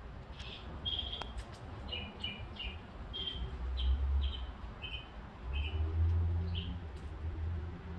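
Birds chirping: a dozen or so short, high chirps at uneven intervals, over a low rumble that swells twice.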